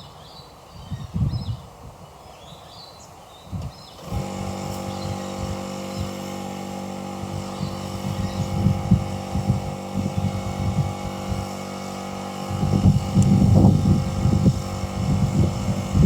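Birds chirping with wind buffeting the microphone, then about four seconds in a motor begins running at a steady, even pitch and keeps going, with gusts of wind over it.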